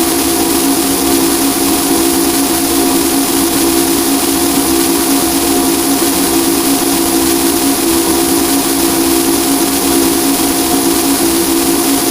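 Harsh noise drone music: a loud, unchanging wall of hiss with steady droning hum tones layered beneath it.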